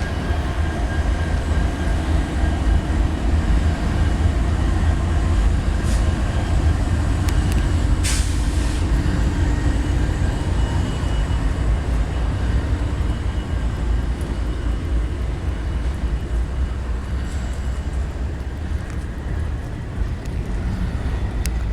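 Freight train cars rolling past on the rails: a steady, loud rumble of wheels on track with a thin high squeal running through it, and a brief hiss about eight seconds in.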